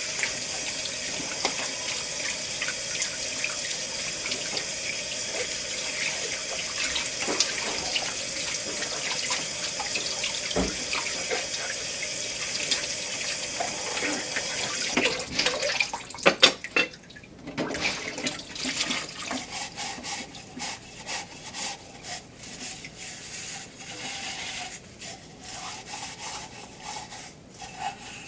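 Tap water running steadily into a kitchen sink for about fifteen seconds, then shut off. After it stops, dishes clatter and knock, loudest just after the water stops, followed by scattered clicks and rubbing.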